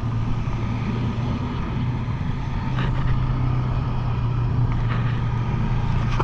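Parasail tow boat's motor running with a steady low drone.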